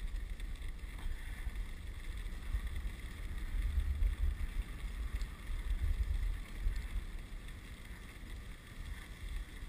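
Low, uneven rumble of wind buffeting the microphone on a moving dog sled.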